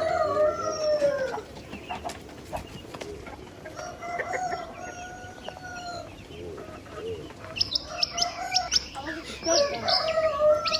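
Roosters crowing, several long crows one after another, with small birds chirping in the last few seconds.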